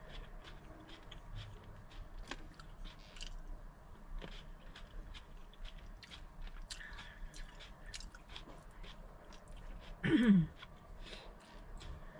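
A person chewing grapes, with a steady scatter of small wet mouth clicks. About ten seconds in, a short hummed 'mm' falling in pitch stands out as the loudest sound.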